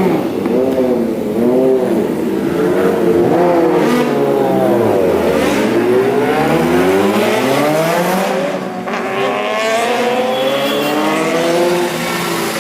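Kawasaki ZX-10R (2021) inline-four with an aftermarket Racefit exhaust, revved repeatedly: the engine note climbs and falls several times, dropping lowest near the middle before rising again.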